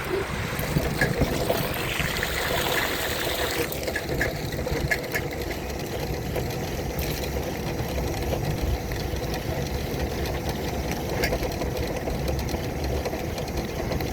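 Battery-powered wheelchair driving along in the rain: a steady motor hum under the hiss of rain and wet wheels, with scattered small knocks.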